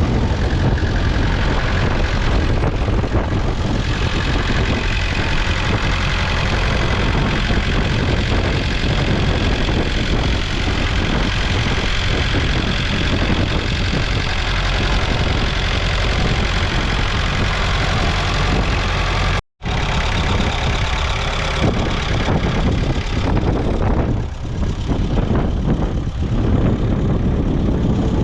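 1967 Massey Ferguson 130's 1.8-litre four-cylinder diesel engine running steadily. The sound cuts out completely for an instant about two thirds of the way through, then carries on.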